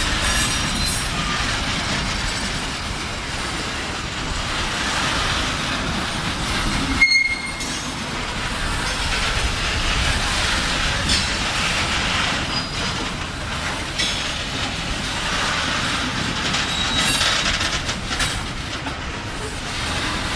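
Freight train rolling slowly through track switches: steady rumble of the cars with wheels clicking over the joints and frogs and brief high-pitched flange squeals now and then.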